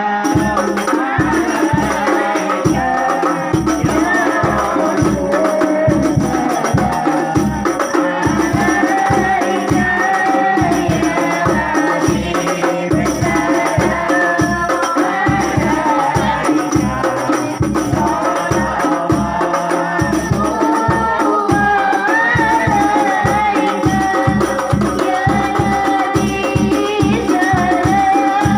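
Voices singing an Arabic shalawat, praise of the Prophet, over hand-beaten frame drums keeping a steady beat.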